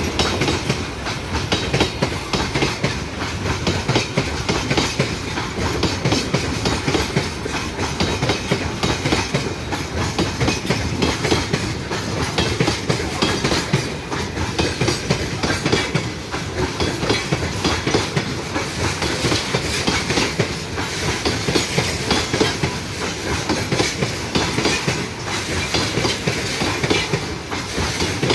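Train rolling past at steady speed, its wagon wheels clattering over the rail joints in a fast, continuous run of strikes.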